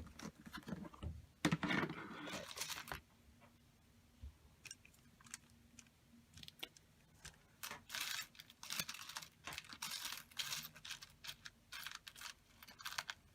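Loose sewing buttons clicking and tapping against each other as they are picked through, in scattered small clicks throughout, with a paper rustle over the first few seconds.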